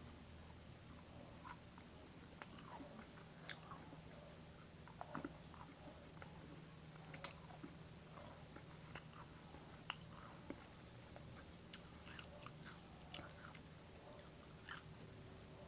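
Faint close-up chewing and crunching of vegetables and cookies: irregular crisp crunches and bites, a few sharper than the rest, over a low steady hum.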